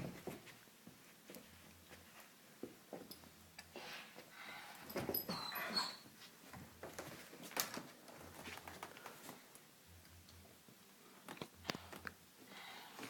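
A dog making small sounds, with a short high whine about five and a half seconds in, amid faint scattered clicks and rustling.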